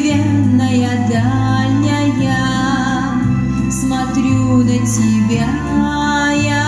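Song with a woman singing over an instrumental backing, the bass stepping to a new note about once a second.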